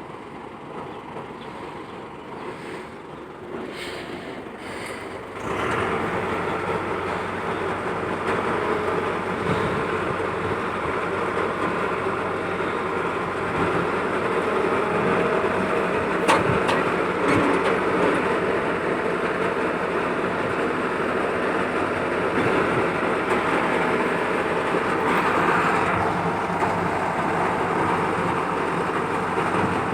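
Kartar 3500 G combine harvester running at work, a steady mechanical din. It gets suddenly louder about five seconds in, and there is a single sharp click around sixteen seconds in.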